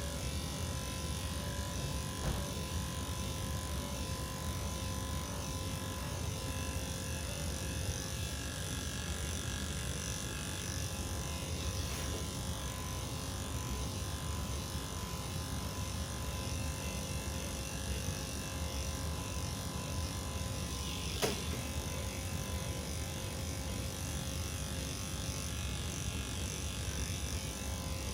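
Electric pet grooming clippers running steadily with an even hum, shaving a cat's matted coat. One brief click sounds about three-quarters of the way through.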